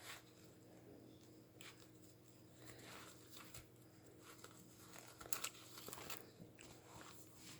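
Faint rustling and crinkling of paper as the pages of a handmade junk journal are handled and turned, in a few short scattered bursts with the loudest a little past halfway, over a faint steady hum.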